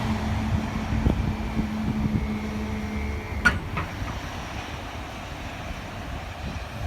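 Passing railtour train, hauled by steam locomotive 7029 Clun Castle with diesel 47773, rumbling away and fading. A steady hum stops about three seconds in, followed by a sharp click.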